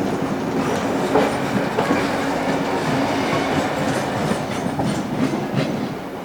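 Passenger carriages of a heritage train rolling along the track: a steady rumble with the wheels clacking over rail joints now and then.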